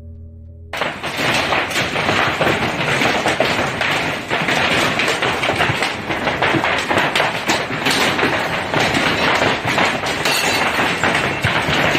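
Soft music cuts off about a second in, giving way to a loud, dense clatter of countless small impacts that keeps up without a break.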